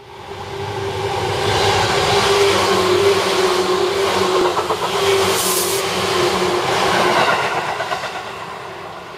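Seibu Red Arrow limited express electric train passing close by: a steady hum and the rush of wheels on rail that build up, stay loud while the cars go by, and fade near the end, with a few wheel clacks about four seconds in.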